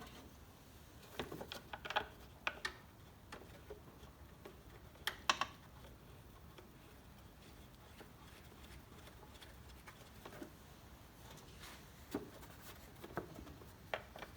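Scattered light clicks and knocks from parts and tools being handled, in a few short clusters with quiet stretches between.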